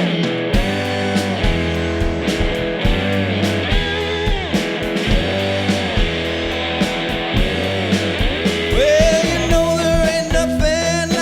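A live rock band playing an instrumental intro in a jam-band, psychedelic rock style: electric guitar phrases with bent notes over bass and a steady drum beat.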